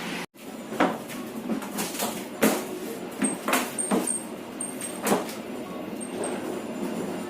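Passenger train carriage knocking and clunking: about seven sharp, irregularly spaced knocks over a steady rumble, with faint brief high squeaks in the middle.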